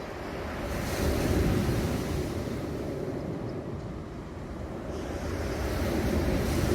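Sea waves washing up a pebble beach and drawing back, rolling the stones with a rattling hiss. The sound swells twice, about a second in and again near the end.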